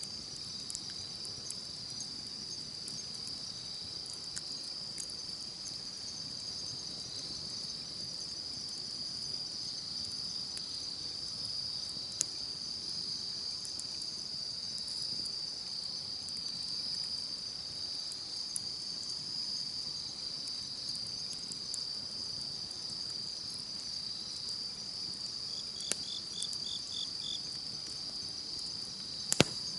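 A steady, high chorus of insects singing, with sparse sharp crackles and pops from a campfire, the loudest pop near the end. A brief run of about five quick chirps stands out briefly near the end.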